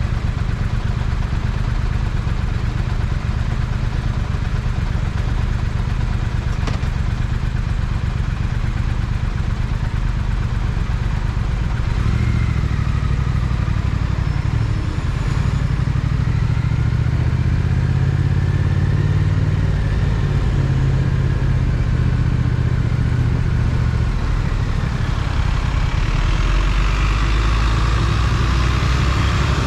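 Triumph Speed Twin parallel-twin motorcycle engine running under way, its low note steady at first and then shifting up and down in pitch from about halfway through. A rush of higher noise rises near the end.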